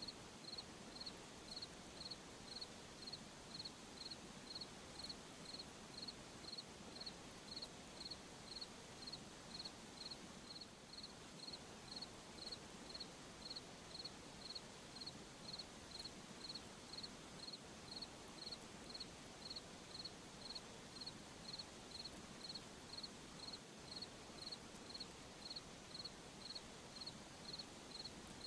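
A cricket chirping in a steady rhythm, about two short high chirps a second, over a faint hiss of night background.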